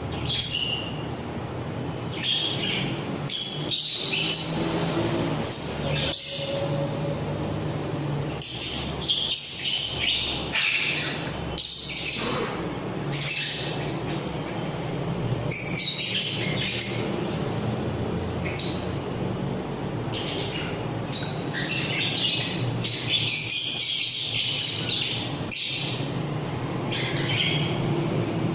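A mixed flock of pet parrots (budgies, lovebirds, cockatiels and ringnecks) chirping and squawking over one another in many short, overlapping high calls, with a steady low hum underneath.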